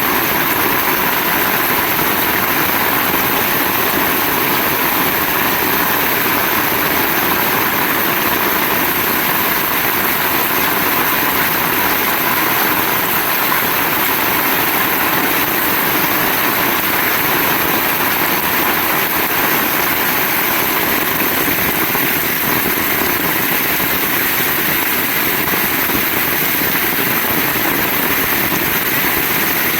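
Heavy rain falling steadily, a dense even hiss without a break.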